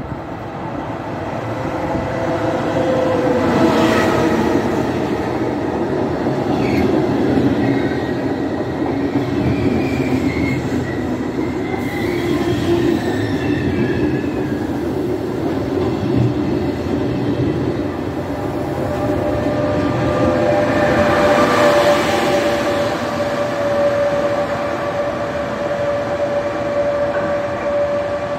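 Locomotive-hauled electric passenger train running past on the platform track: a continuous rumble of wheels on rail, which swells as the locomotive and then the coaches go by. A few faint high wheel squeals come partway through, and a steady whine is held through the last third.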